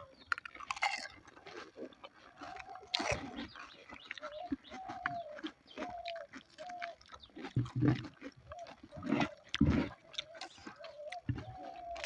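Close-up chewing and crunching of crisp panipuri shells: many sharp crackles and a few soft thuds. A pigeon coos in the background through the second half, a series of short rising-and-falling notes.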